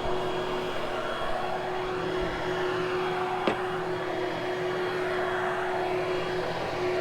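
Vacuum cleaner running steadily on berber carpet, a constant motor whine over airflow noise. A single sharp click comes about halfway through.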